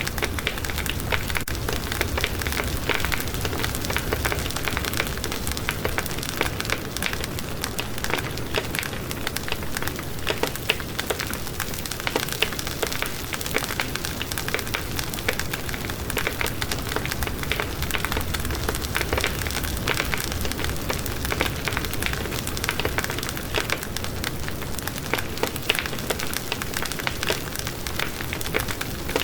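Wood fire in a fireplace crackling steadily, with a dense stream of small pops and snaps over a low rumble of the flames.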